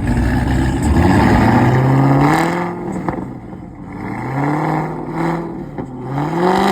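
Car engine being revved three times, each rev rising in pitch and then falling back.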